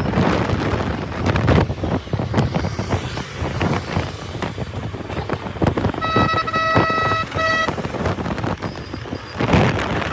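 Road traffic heard from a moving motorcycle, with wind buffeting the microphone. About six seconds in, a vehicle horn honks in a few short blasts, lasting under two seconds.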